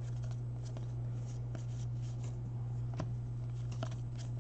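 Baseball trading cards being handled and flipped through one by one, with scattered light clicks and rustles of card stock, over a steady low electrical hum.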